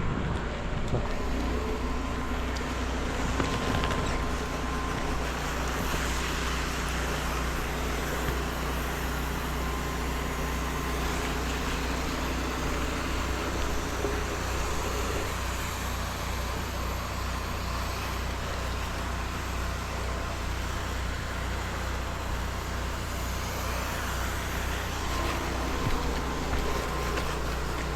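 A soft-wash rig's generator and booster pump running steadily, a low engine hum under a hiss of spray.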